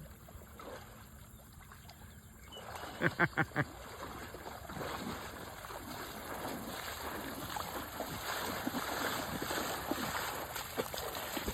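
Shallow floodwater splashing and sloshing, building from about four seconds in and staying busy with many small splashes. A quick run of four short calls comes just before the splashing starts.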